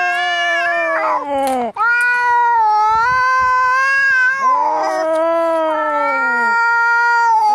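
Cats caterwauling in a fight: long, drawn-out yowls that hold and then sag in pitch at their ends. A second, sliding call cuts in over them twice.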